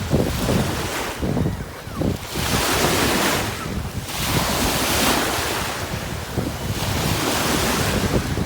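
Ocean surf on a beach: waves breaking and washing up the sand, three swelling washes of foam each lasting about a second, over a steady low rumble. Wind buffets the microphone.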